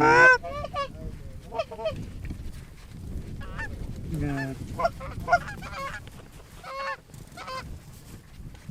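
Geese honking: a string of separate honks, the loudest right at the start and another strong one about four seconds in.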